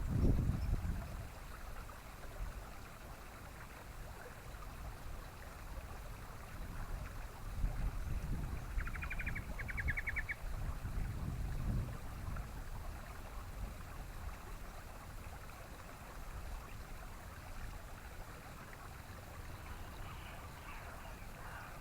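Steady low rumbling outdoor noise, swelling now and then like wind on the microphone. About nine seconds in, a bird gives two short, rapid chattering trills, and faint chirps come near the end.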